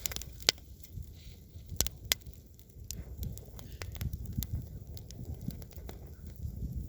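Campfire crackling, with irregular sharp pops, the loudest about half a second in and two more around two seconds in, over a low steady rumble.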